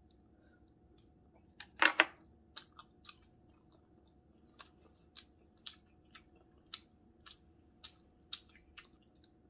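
Close-miked chewing of a steamed dumpling: wet mouth clicks and smacks at about two a second. A louder pair of sharp clicks comes about two seconds in.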